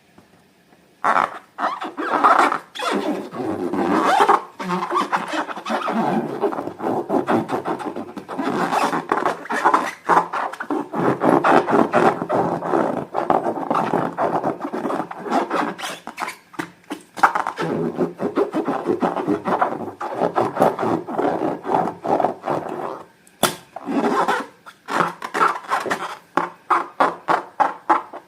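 Slime being kneaded and mixed by hand, giving wet, sticky squelching and crackling. It stops briefly near the end, then returns as rhythmic squishes about three a second.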